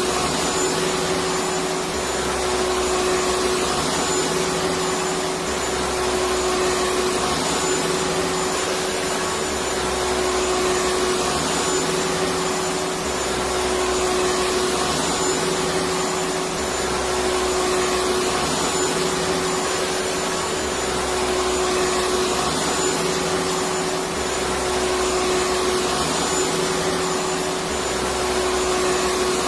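Vacuum cleaner running steadily as white noise: an even rushing hiss with a steady motor hum and a faint high whine. A low rumble swells and drops about every two seconds.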